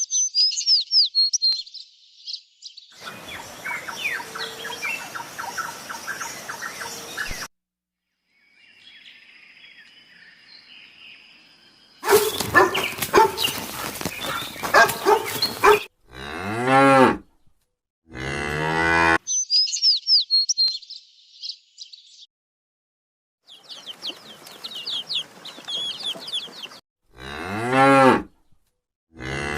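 A series of short animal-sound clips cut together: cattle mooing several times, in drawn-out calls that bend in pitch, with stretches of high, quick chirping calls in between.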